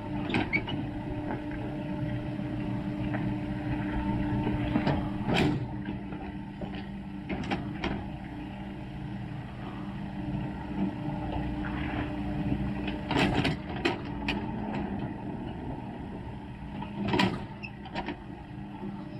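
A steady low engine hum with scattered sharp clicks and knocks over it.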